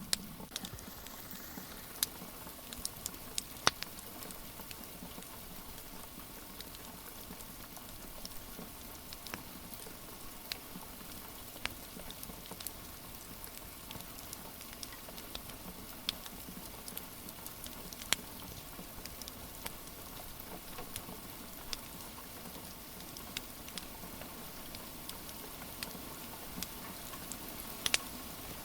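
Steady rain hiss mixed with the crackling of a wood fire: irregular sharp pops and snaps scattered over the rain, a few louder than the rest.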